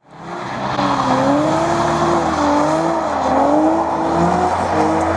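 Car noise: a steady low engine note under a sustained, wavering squeal that slides slowly up and down in pitch, of the kind tyres make while skidding.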